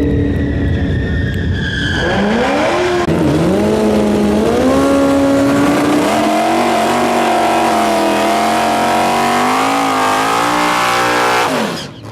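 A high-performance car engine at full throttle: steady whining tones at first, then the revs climb, drop sharply at a gear shift about three seconds in, and climb again and hold high. The engine sound cuts off abruptly near the end.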